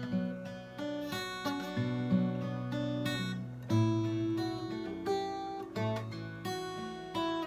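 Acoustic guitar strumming chords, a new strum every second or so.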